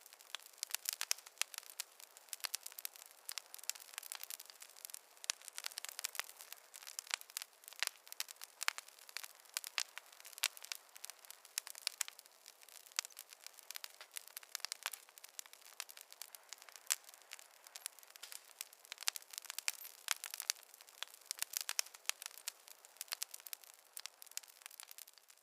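Wood fire in a fireplace crackling, with a steady stream of sharp, irregular pops and snaps and almost no low rumble.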